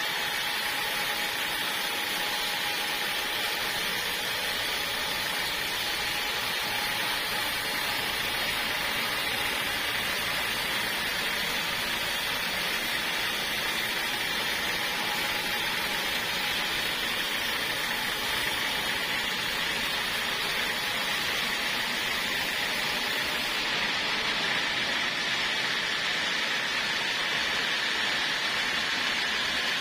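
Sawmill saw running steadily, a continuous even whine and hiss as it cuts through a log.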